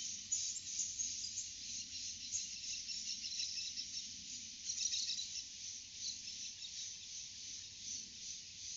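Forest ambience: a dense, steady chorus of high-pitched insect chirping, with bird calls mixed in.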